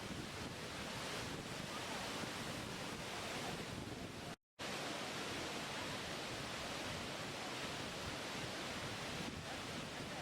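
Steady rush of a waterfall, an even hiss of falling water. It cuts to silence for a split second about four and a half seconds in, then resumes.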